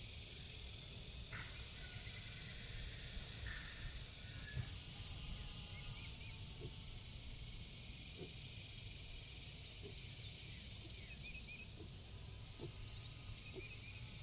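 Insects trilling steadily in a high, even pulse, with a few faint short chirps and some soft clicks over a low rumble.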